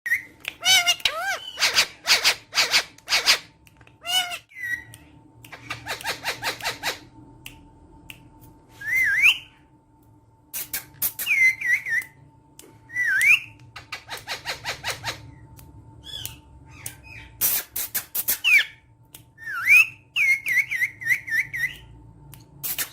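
Indian ringneck parakeets calling: runs of short, harsh squawks alternating with wavering, rising whistles, with a run of quick warbling whistles near the end.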